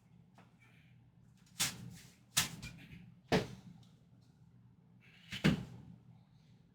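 Four sharp clanks from weight-training gear during bench-press reps. They come unevenly: three within about two seconds, then a last one about two seconds later.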